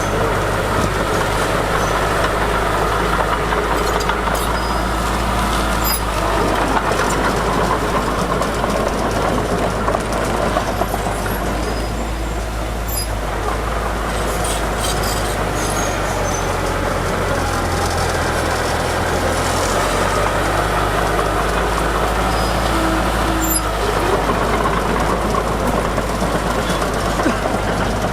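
Heavy diesel earthmoving machinery running steadily, with a change in the engine's low tone partway through and occasional faint high clicks.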